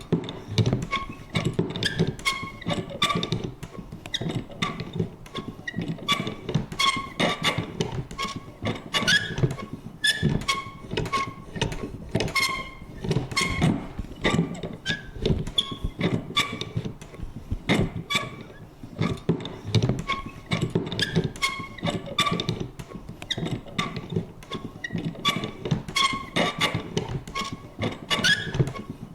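Vintage paper punch worked over and over: a rapid, irregular run of clicks and knocks, each with a short high creak or squeak.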